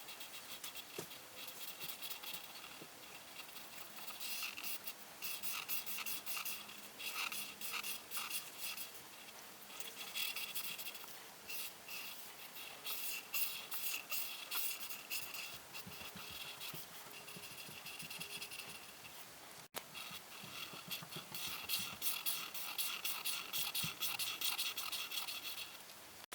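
A coloring tool scratching back and forth across paper in quick, repeated strokes, in spells with brief pauses and a sudden short dropout about twenty seconds in.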